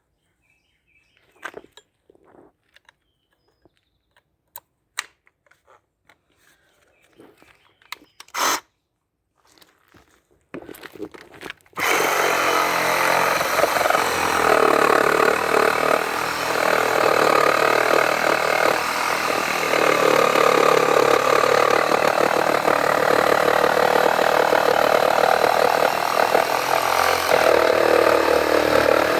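A few handling clicks and knocks, then about twelve seconds in a Ryobi One+ cordless reciprocating saw starts up and runs loud and steadily for the rest of the time.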